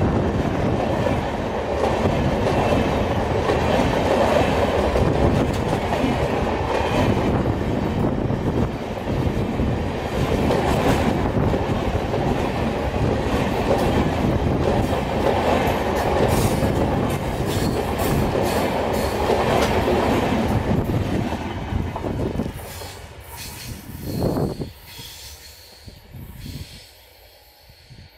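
Tamil Nadu Express, an Indian Railways passenger train, running past at speed: a loud, steady rumble and clatter of wheels on the rails. The sound drops away about 22 seconds in as the train clears, with a brief noise a couple of seconds later.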